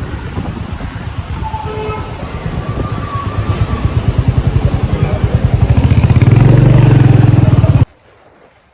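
Motorcycle engine running on the road, a fast even pulsing rumble that grows louder over several seconds, then cuts off abruptly near the end.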